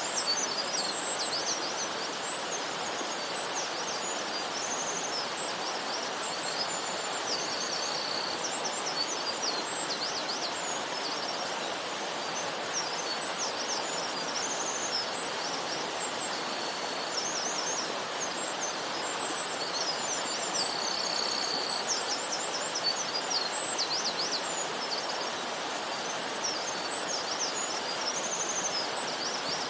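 Eurasian wren singing: repeated song bouts of fast, high-pitched trills and chattering notes, over a steady background noise.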